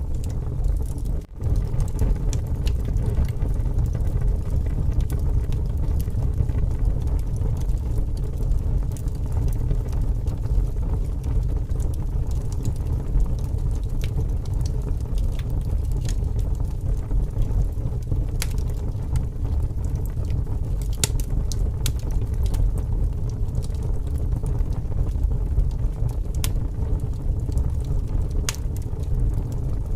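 Wood fire burning in strong wind: a steady low rumble of wind gusting, with scattered sharp crackles and pops from the burning logs. The sound drops out briefly about a second in.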